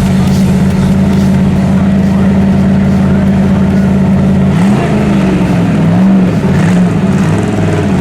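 Car engine held at steady, high revs, then from about four and a half seconds in revved up and down repeatedly.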